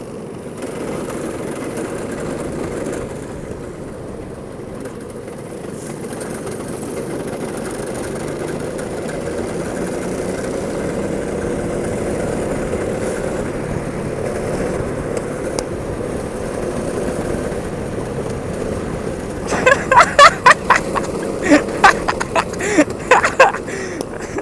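Go-kart engines running steadily with a wavering drone. About 19 seconds in, a run of loud, sharp bursts begins.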